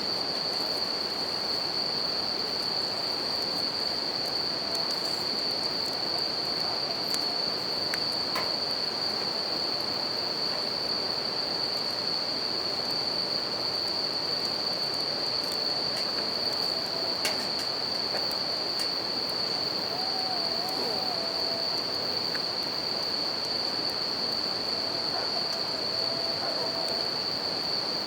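Japanese bell crickets trilling in one steady high tone over the constant rush of a river, with a few faint crackles from a wood fire.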